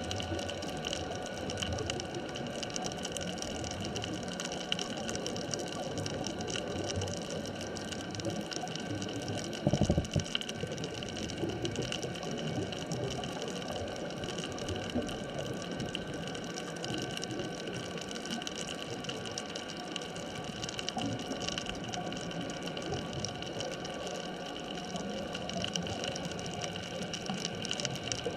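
Underwater ambient sound at depth: a steady wash of water noise with several steady faint tones running through it, and one short, louder low rush about ten seconds in.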